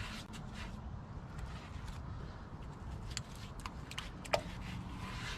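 Excavator engine idling as a steady low rumble, with scattered clicks and scrapes of hand work on the concrete catch basin and one sharper knock about four seconds in.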